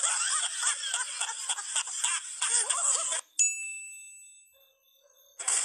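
Rapid, high-pitched, laughter-like chattering for about three seconds, from the laughing-monkeys meme clip. It cuts off suddenly into a single bright ding that rings and fades away over about a second and a half.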